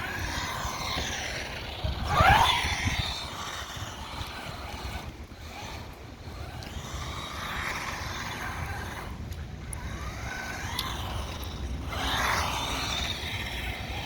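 Brushed electric motor of a 1/16-scale SG-1603 RC drift truck whining as the throttle is worked, its pitch rising and falling. It is loudest about two seconds in and drops out briefly a few times.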